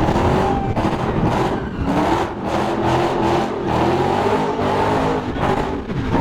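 Car engine revving hard in repeated surges, the pitch climbing and dropping back several times.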